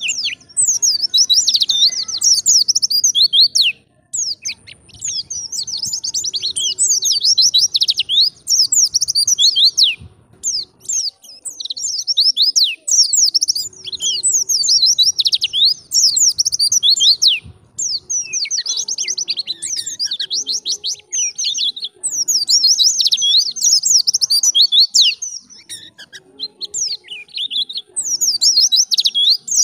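White-eye (pleci) singing vigorously: long runs of rapid, high twittering chirps, broken by brief pauses every few seconds.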